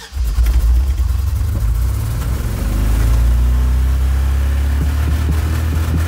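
Truck engine revving hard: a deep drone that cuts in suddenly, climbs in pitch about two to three seconds in, then holds high.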